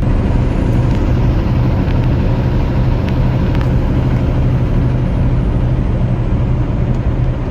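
Semi-truck engine droning steadily with road noise while driving at highway speed, with a few faint clicks.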